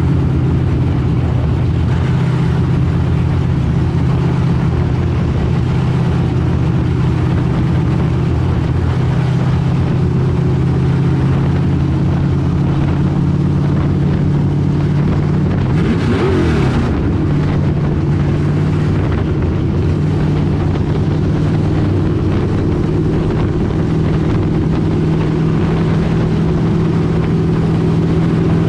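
Street stock race car engine running hard at steady revs during a race. About sixteen seconds in there is a brief louder rush that rises and falls in pitch.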